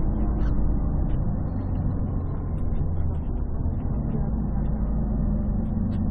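Steady low rumble of a 1998 Scania CN113CLL city bus under way, from its Scania DSC 11.71 diesel engine and Voith D863.3 automatic gearbox, heard from inside. It sounds bassy and muffled because the phone's microphone is partly covered.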